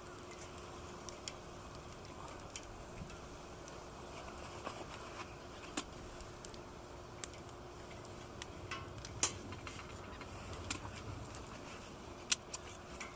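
Campfire crackling: scattered sharp pops and clicks at irregular intervals over a low steady background.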